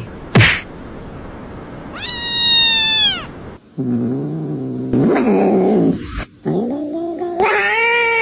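Cats meowing and yowling: a high meow that drops in pitch at its end about two seconds in, then lower, drawn-out yowls that waver up and down. A sharp knock just before the first call.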